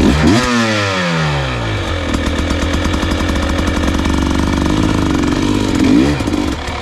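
Dirt bike engine revving hard right at the start as the bike is ridden up a short rock wall, the pitch dropping away within about a second, then running steadily with a few short throttle blips near the end.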